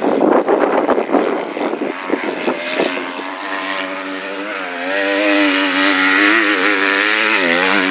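Wind buffeting the microphone, then a motocross bike's engine comes in, rising in pitch and wavering up and down as it revs, with a brief dip near the end.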